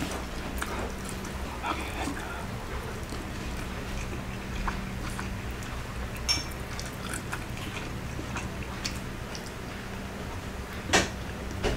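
Close-miked eating sounds: a man chewing rice and fried pork eaten by hand, with soft wet mouth clicks and smacks over a steady low hum. A brief high squeak comes about six seconds in, and a sharp click near the end.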